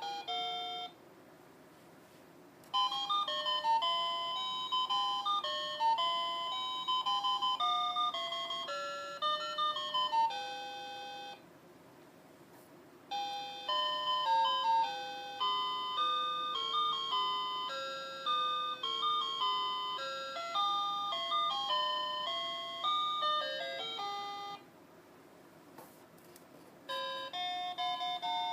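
Tinny electronic tune from a play-a-sound book's sound chip, a simple melody of single beeping notes. It stops for a second or two about a second in, near the middle and near the end before playing again.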